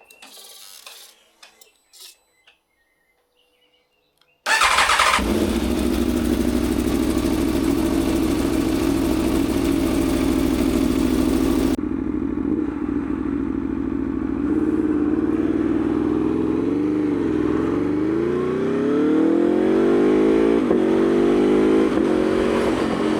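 Aprilia Tuono V4's V4 engine catching suddenly about four and a half seconds in, after a few faint clicks, and then idling steadily. Over the last several seconds the revs rise and fall smoothly.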